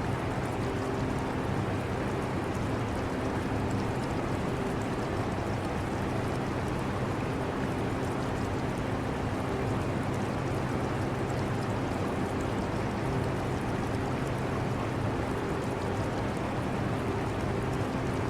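Portable air conditioner running with a steady hum, blended with the sound of aquarium water.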